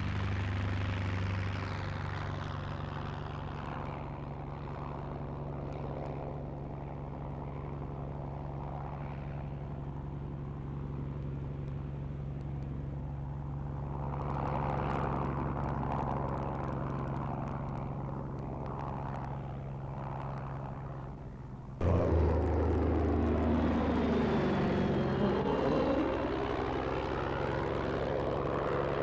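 Piston engine of a vintage propeller aircraft, the LVG C.VI's Benz six-cylinder, running steadily. About 22 seconds in the sound jumps abruptly to a louder, closer engine whose tone sweeps down and back up as the aircraft passes.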